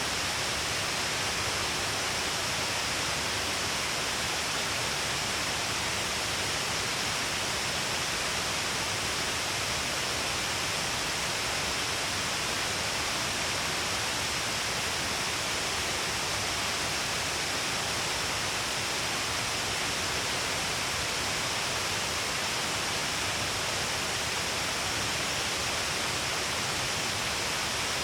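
Shiraito Falls, a heavy flow of water pouring down along a long cliff face, makes a steady, even rush with no breaks or changes.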